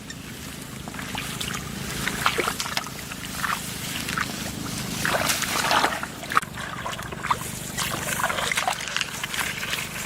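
Shallow floodwater in a rice field sloshing and splashing, with many short splashes and clicks scattered through it.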